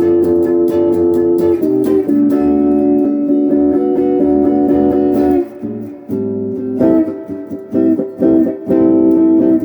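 Electric guitar on its middle pickup position playing sustained chords, with volume and tone on 10, through a Crate GX15R practice amp and a Golden Plexi overdrive pedal. The playing pauses briefly about six seconds in, then resumes with shorter chords.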